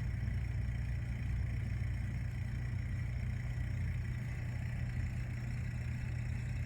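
Steady low motor hum of a lake aeration pump, running without change. A faint, steady, high-pitched chorus of lake critters sits behind it.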